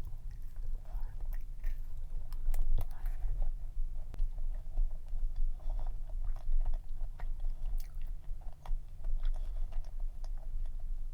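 Chewing a dense cream cheese cup cookie, with frequent small, irregular wet clicks of the mouth.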